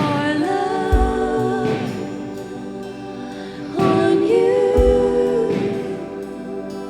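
Live worship music: held sung notes over sustained keyboard chords with a low bass note, two sung phrases, one at the start and another about four seconds in.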